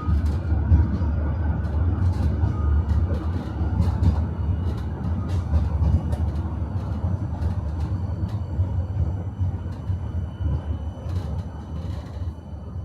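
Tram running on its rails, heard from inside the car: a steady low rumble with scattered clicks and knocks of the wheels on the track. It grows quieter near the end.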